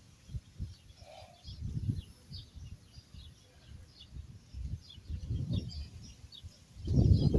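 Small birds chirping over and over in short, high notes, with irregular low rumbling gusts that grow loudest near the end.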